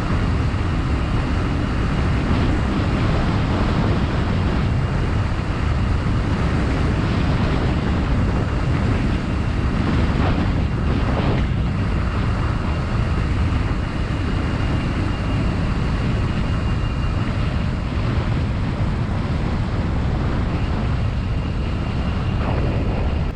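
Steady rush of wind on the microphone and tyre noise from a mountain bike being ridden, loud and unbroken.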